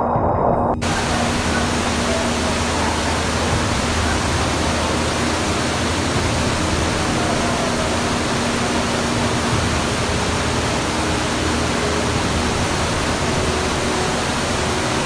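Loud, steady rushing noise spread evenly from low to high pitch, cutting in abruptly just under a second in.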